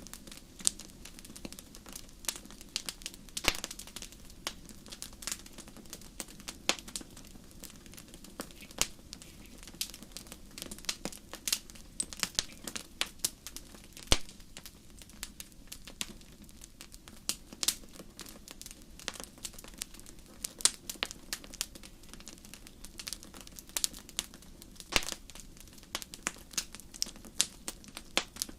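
Wood fire crackling in a fireplace: irregular sharp snaps and pops, several a second and some louder than others, over a faint steady low hum.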